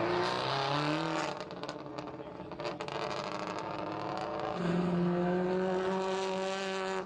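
Rally car engine running hard at high revs. Its note falls away about a second in among scattered knocks and clatter. Later it rises again to a steady, held high-rev note.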